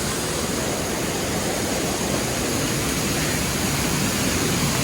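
Small mountain waterfall rushing, a steady, loud spray of falling water heard close up.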